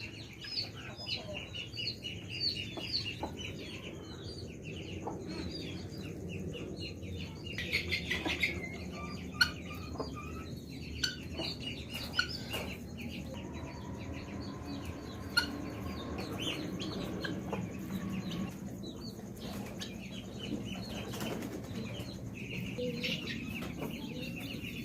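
A flock of chickens clucking, with many quick high chirps in rapid series and a louder burst of calling about eight seconds in.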